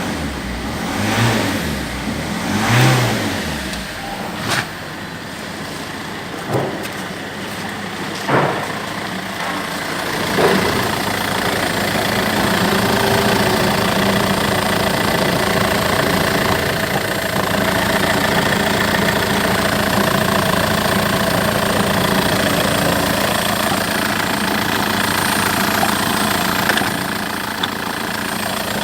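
Peugeot 2.0 HDi DW10BTED4 four-cylinder common-rail turbodiesel running. In the first ten seconds or so it rises and falls in pitch a few times, with several sharp knocks, then it settles into a steady idle.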